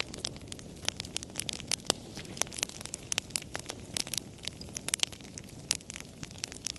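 Campfire crackling: burning wood giving irregular sharp snaps and pops, several a second, over a soft steady low rush of the flames.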